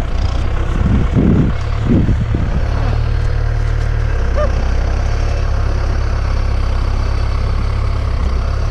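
Tractor engine idling steadily with a constant low hum, with a few short louder low sounds in the first two seconds.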